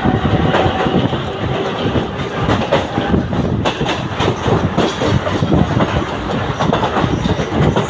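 Mumbai suburban local train running, its wheels clattering over the rails, heard from on board.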